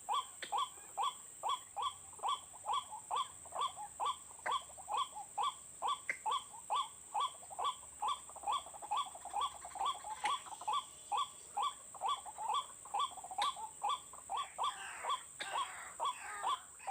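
White-breasted waterhen (ruak-ruak) calls repeated in a fast, even series, nearly three short downward-sliding notes a second, the kind of call used to lure the birds to a snare.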